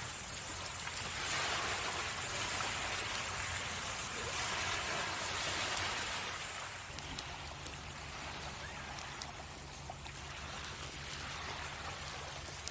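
Sea waves washing onto the shore: a hiss of surf builds over the first few seconds, then falls away about seven seconds in to a quieter wash.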